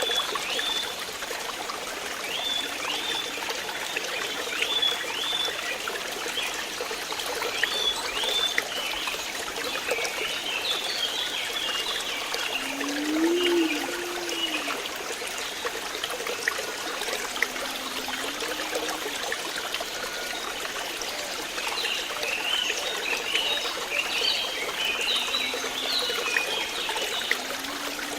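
Water trickling and flowing steadily, with small birds chirping in short, repeated high notes throughout. A few low calls come about halfway through and again near the end.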